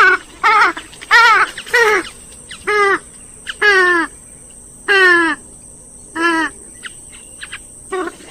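Grey-headed swamphen calling: about nine short nasal calls at uneven intervals, several of them sliding down in pitch.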